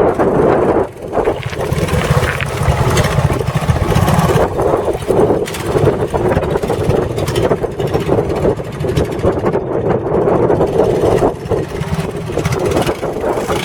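Trials motorcycle engine running steadily, its level rising and falling a little.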